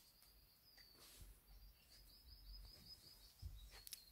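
Near silence, with a small bird faintly chirping in a quick series of short high notes that come thicker from about halfway through. A couple of faint clicks sound near the end.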